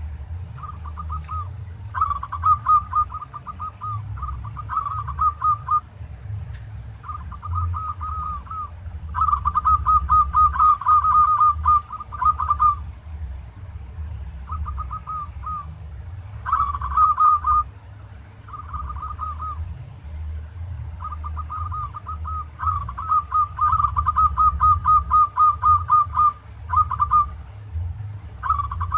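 Zebra dove (perkutut) cooing: repeated rapid phrases of short, even notes, each phrase a second or two long with short gaps between, over a steady low rumble. Fainter high chirps from other birds sound now and then.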